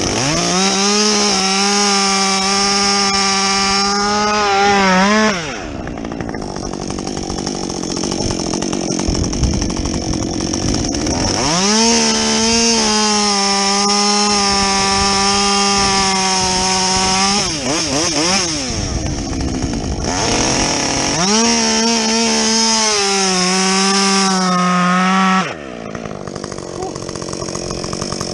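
Husqvarna 562XP single-cylinder two-stroke chainsaw with a modified, opened-up muffler running at full throttle through three long cuts. Between cuts it drops back to a lower, rougher run, and the revs fall away at the end of each cut.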